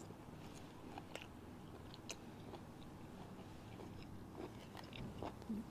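A man chewing a mouthful of juicy pepper-fried chicken, faint wet mouth clicks and smacks scattered through the chewing.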